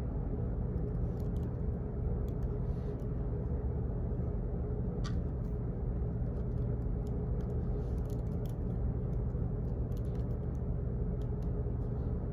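Office background noise: a steady low hum and rumble, with faint, scattered clicks and ticks over it.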